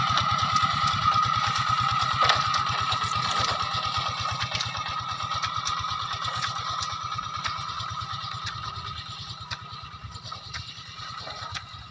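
A small engine running, with rapid low firing pulses and a steady whine, growing gradually fainter.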